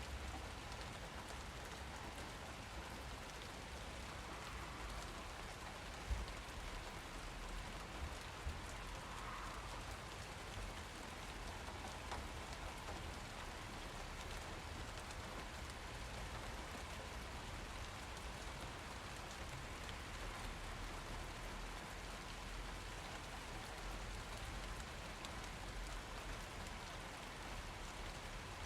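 Steady rainfall, an even hiss with a low rumble underneath, and a few sharper taps about six and eight seconds in.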